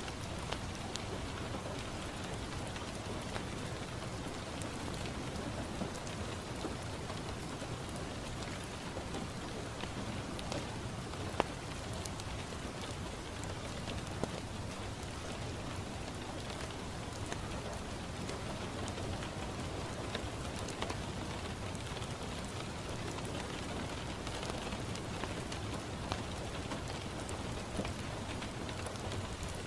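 Steady rain falling on a window, with scattered sharp crackles from a wood fire; the loudest pops come about eleven and fourteen seconds in.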